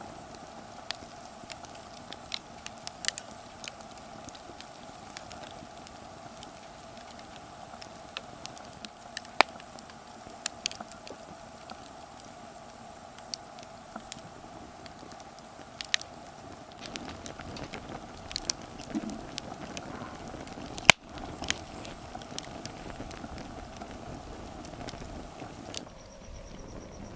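Campfire wood crackling, with irregular sharp pops over a steady hum. Near the end the hum drops away and a steady high-pitched buzz comes in.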